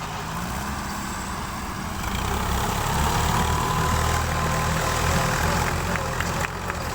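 Tractor diesel engine running steadily, growing louder about two seconds in.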